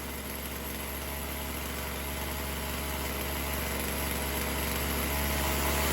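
Poulan Pro 4620 chainsaw's two-stroke engine idling steadily after coming down off a rev, growing a little louder toward the end, during carburettor idle tuning.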